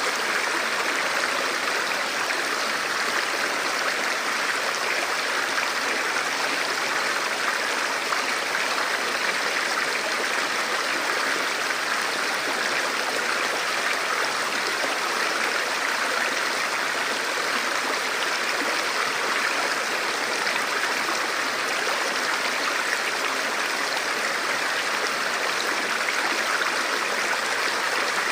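Steady rushing and gurgling of a forest stream flowing over rocks, even throughout.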